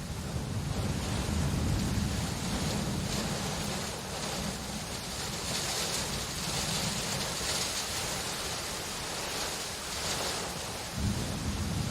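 Steady rain falling, with a low rumble of thunder that fades after a few seconds and rolls in again near the end.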